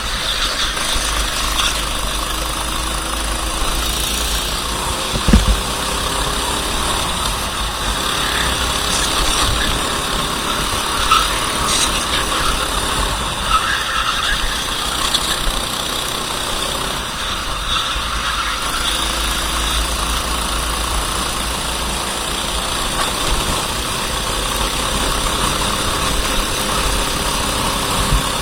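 Racing kart engine running at low, idle-like revs under a steady rushing noise, with one sharp thump about five seconds in.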